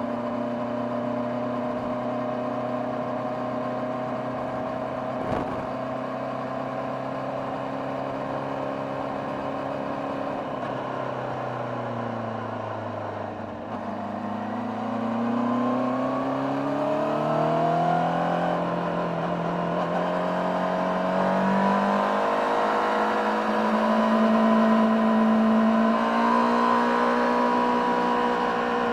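A 2024 Honda CBR600RR's inline-four engine and stock exhaust, heard onboard while riding. It holds a steady speed, then the revs fall off the throttle. It then accelerates with rising pitch, a quick upshift drops the revs about eighteen seconds in, and it climbs again before settling to a steady cruise. There is one short knock about five seconds in.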